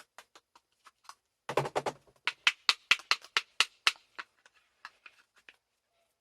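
A rapid series of knocks or taps, about five a second, loudest in the middle and thinning out to faint ticks near the end.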